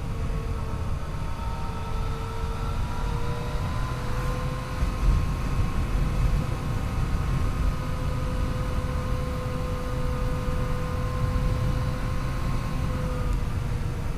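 Yamaha FJ-09's three-cylinder engine running under way, its pitch climbing slightly in the first few seconds and then holding steady, over a heavy rumble of wind on the microphone.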